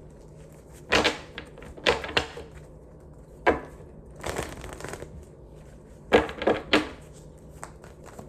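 A deck of reading cards being shuffled and handled: a run of short, sharp riffles and snaps in uneven clusters, with pauses between them.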